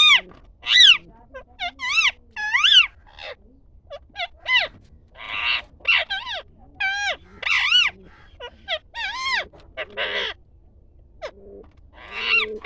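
Birds calling: a quick string of short, arching squawks and whistles, broken by a few harsh screeches.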